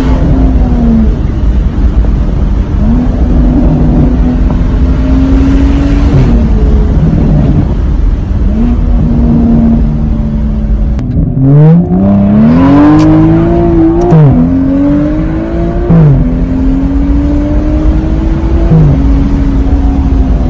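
Straight-piped, MHD-tuned BMW N55 turbocharged inline-six of a 435i, heard from inside the cabin, pulling through the gears: the engine note climbs and drops back at each shift several times, with the hardest, steepest climb about twelve seconds in.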